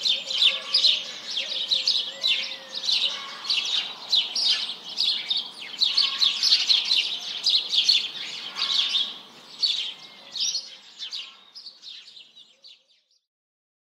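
Birds chirping and singing in a dense chorus of short, quick calls that fade out near the end.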